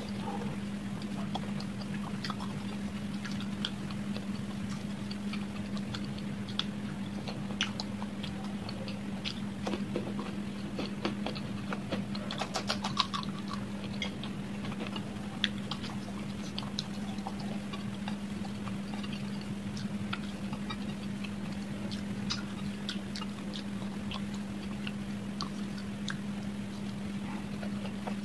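Close-up mouth sounds of eating: chewing luchi with dum aloo, with scattered wet clicks and lip smacks, and a quick run of clicks about 13 seconds in. A steady low hum runs underneath.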